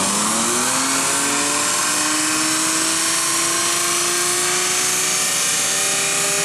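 BMW E46 M3's S54 inline-six, Dinan-tuned, on a chassis dyno pull: the engine runs hard under load with its pitch climbing slowly and steadily as the revs rise.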